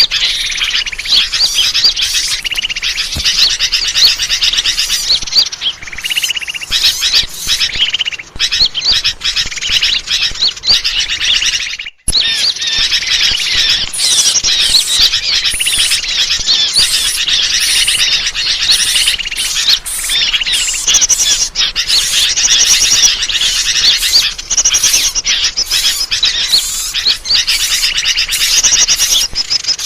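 Dense, loud chorus of many small birds chirping and twittering over one another without pause, played as a bird-lure (pikat) recording to call in wild birds. It drops out for an instant about twelve seconds in.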